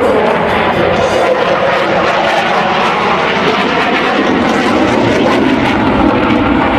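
Dassault Rafale fighter jet's twin jet engines roaring loudly and steadily as it flies its display, with a tone sliding down in pitch in the first half second.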